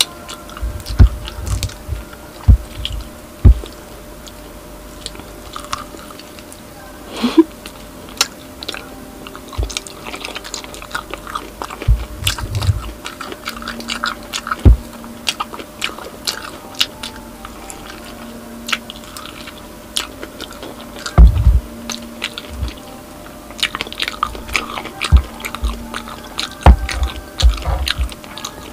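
Close-miked chewing and biting of deep-fried pork knuckle (crispy pata), with many sharp crackles and wet mouth sounds. Now and then there is a cluster of low thumps.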